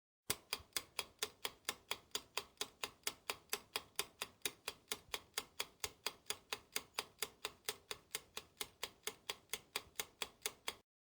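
Clock-ticking sound effect: an even run of sharp ticks, about four a second, that starts abruptly just after the start and cuts off abruptly near the end.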